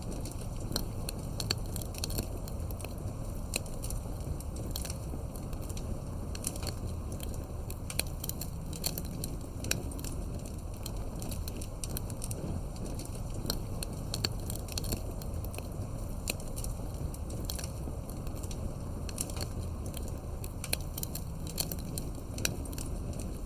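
Wood campfire burning, with frequent irregular crackles and pops over a steady low rush of flame.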